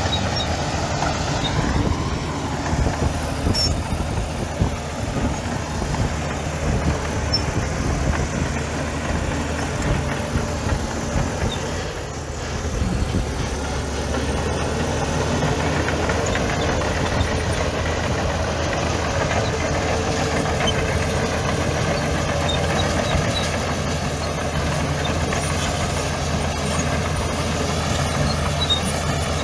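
Heavy diesel engine of earthmoving machinery running steadily, dipping briefly near the middle.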